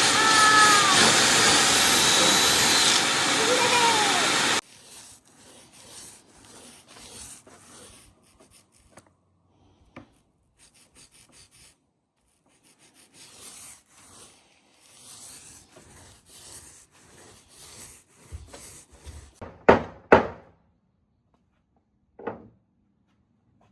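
Power saw cutting plywood, loud and steady for about four and a half seconds before cutting off suddenly. Quieter scraping and rubbing on wood follow, then a few sharp wooden knocks near the end.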